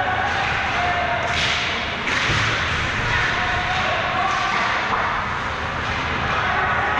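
Ice hockey play: sharp stick, puck and board hits, two of them about a second and a half and two seconds in, over a steady arena din with faint voices.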